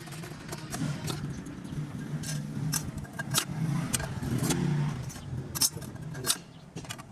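An engine running steadily in the background, growing louder in the middle, with scattered sharp metallic clinks and knocks over it.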